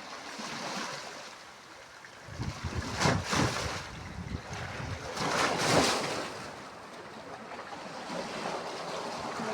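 Sea waves breaking on the shore, a steady wash of surf with two louder crashes, about three and about six seconds in.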